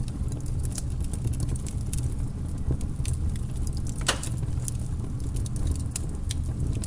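Wood logs burning in a fireplace: a steady low roar of the fire with scattered crackles and small pops, and one louder pop about four seconds in.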